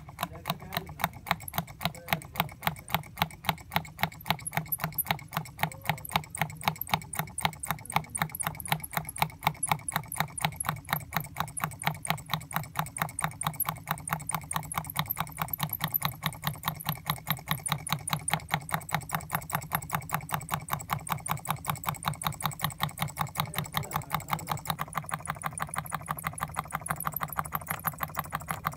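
Homemade tin-can Stirling engine running at a steady speed, its crank linkage and CD flywheel making a rapid, even clicking over a low hum.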